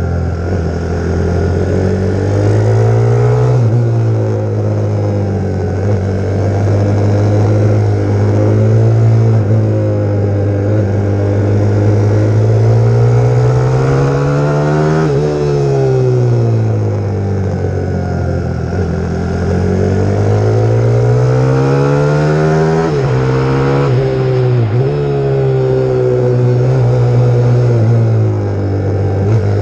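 150 cc pit bike engine under riding load, its revs rising and falling as it accelerates and eases off. The note climbs to a peak about halfway through, falls away, then climbs again a little before the end.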